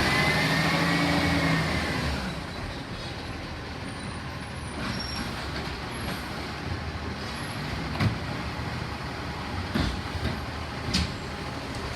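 Garbage truck working at the kerb: its engine and hydraulics run with a whine that rises and falls over the first two seconds, then settle to a steadier, quieter running with a few knocks and clunks near the end.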